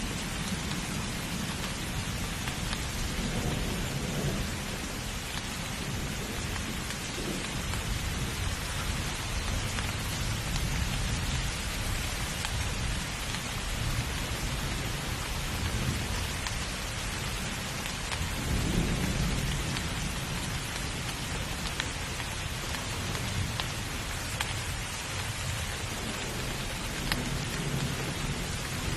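Heavy rain falling steadily, with low rumbles of thunder swelling and fading now and then, the strongest about two-thirds of the way through.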